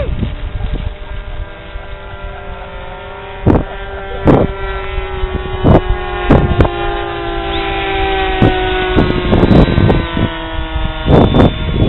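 RC model jet engine running with a steady whine whose pitch slowly sinks, and a second, higher whine joining about seven seconds in. Several sharp thumps or knocks are scattered through it.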